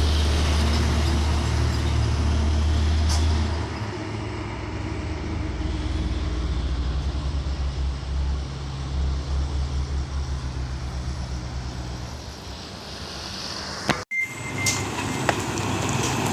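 Heavy diesel trucks driving past, their engines running with a deep hum that gives way to a pulsing low drone as one moves off, then a brief cut-out and another truck coming up louder near the end.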